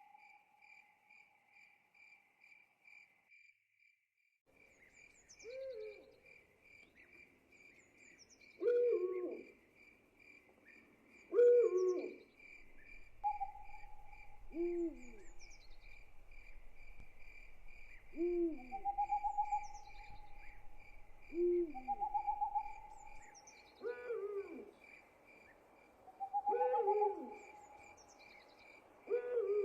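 An owl hooting: a short call that falls in pitch, repeated every two to three seconds from about five seconds in. Underneath it runs a steady, fast cricket trill.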